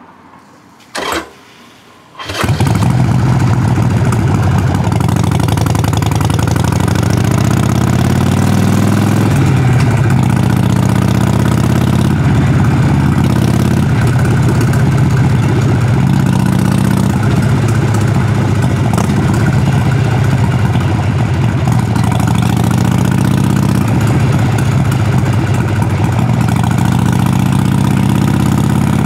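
Harley-Davidson Sportster Forty-Eight's air-cooled 1200 cc V-twin being started: a short burst about a second in, then the engine catches about two seconds in and settles into a steady idle through the exhaust.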